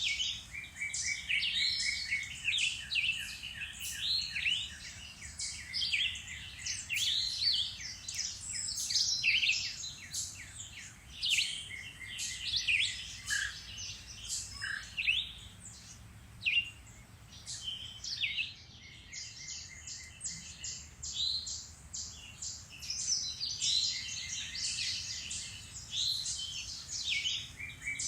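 Several songbirds singing and calling at once in a dense spring woodland chorus: overlapping chirps and whistled phrases, with runs of rapid trilled notes, easing briefly midway.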